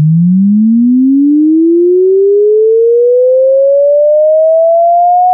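Electronic alarm sound effect: a single pure tone sliding steadily upward in pitch without a break, held at an even, loud level.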